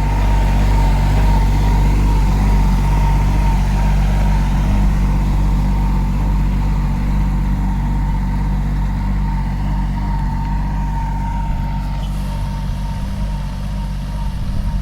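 Kubota 27 HP tractor's diesel engine running steadily, with a steady high whine above it.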